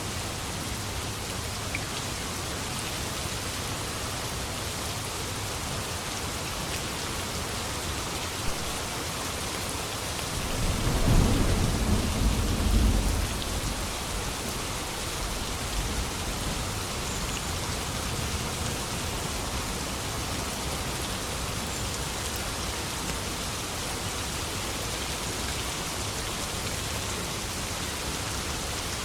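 Steady rain falling, with a low rumble of thunder that swells about ten seconds in and dies away some three seconds later.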